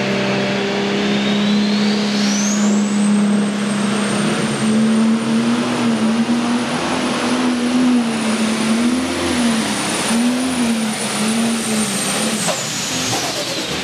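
Pro stock pulling tractor's turbocharged diesel engine under full power on a pull. The turbo whine climbs steeply about two seconds in, holds high, and falls away near the end as the tractor lets off. The engine note wavers up and down mid-pull as the tractor hops and loses momentum.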